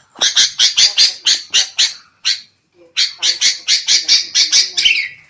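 Sooty-headed bulbuls (kutilang) giving rapid, harsh scolding calls, about five a second, in two runs with a short pause about halfway. This is agitated, noisy bulbul chatter.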